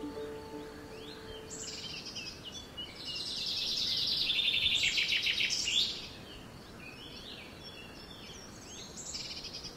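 Birds chirping and singing, with a louder, rapid trilling song from about three to six seconds in.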